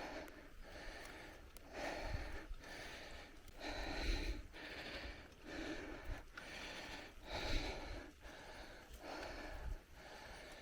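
A cyclist's heavy, rhythmic breathing, a hard breath in or out about once a second, with a low rumble now and then from wind on the microphone.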